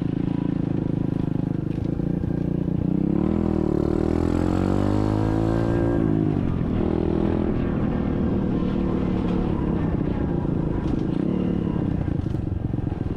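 SSR 125cc dirt bike's single-cylinder engine running while riding, revving up and easing back down about three to six seconds in, then holding a steady pace.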